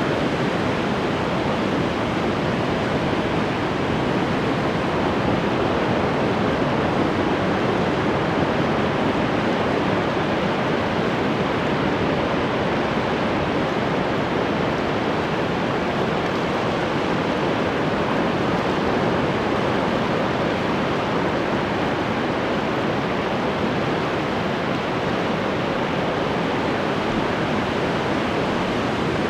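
Ocean surf: a continuous, even wash of breaking waves with no distinct separate crashes.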